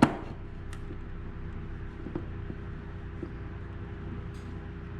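Steady low background hum, with a few faint, scattered metal clicks as a bearing puller is positioned on a chainsaw crankcase.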